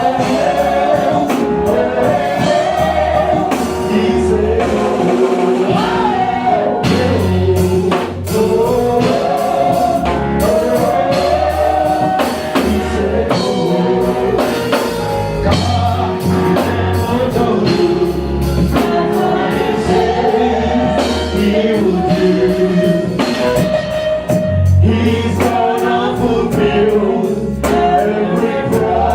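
Gospel music: a choir singing with a band, steady bass and drums.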